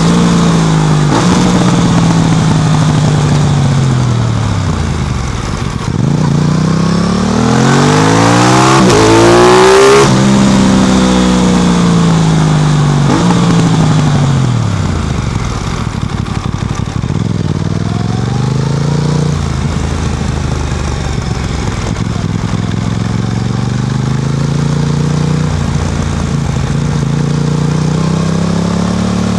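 Aprilia RS660's parallel-twin engine through an SC Project exhaust, repeatedly rising and falling in pitch as it pulls and eases off. One climb drops sharply about ten seconds in, like a gear change, and the engine then runs lower and steadier with small rises near the end.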